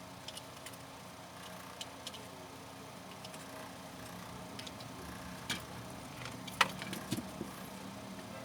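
Small clicks and taps from handling the plastic parts of an extension cord under repair, scattered irregularly, with the sharpest click about six and a half seconds in, over a steady low hum.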